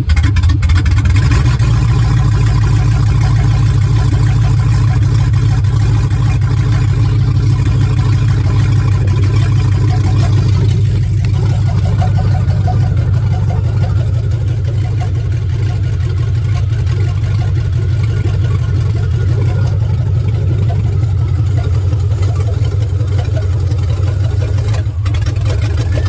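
A vehicle engine running steadily, a constant loud low drone.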